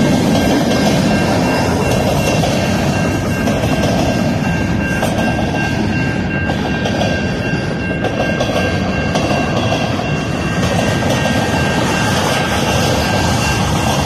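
Freight cars of a slow-moving mixed freight train rolling past, a steady rumble of wheels on rail, with a faint steady high-pitched tone over it.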